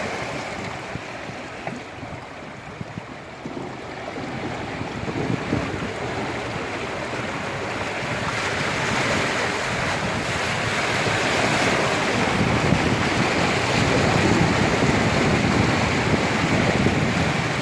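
Floodwater rushing and splashing in a steady wash of noise that grows louder about halfway through.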